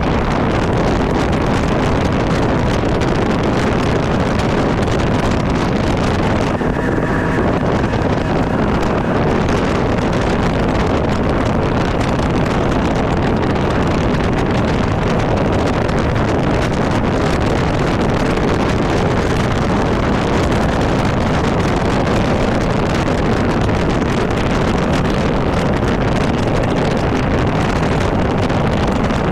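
Heavy wind noise buffeting the microphone on a Ranger bass boat running at cruising speed, with the boat's motor under it. The noise is steady and loud throughout.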